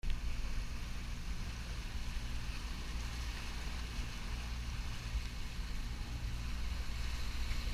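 Motorboat engine running steadily at cruising speed, a low hum, with water rushing past the hull.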